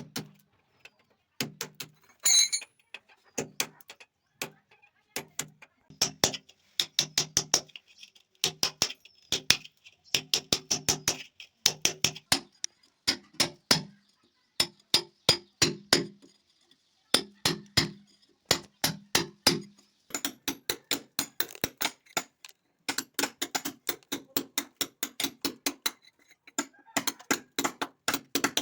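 Hammer strikes in quick runs of several blows a second, with short pauses between runs; each blow gives a sharp knock with a clinking ring, the sound of hard material being struck during commode fitting.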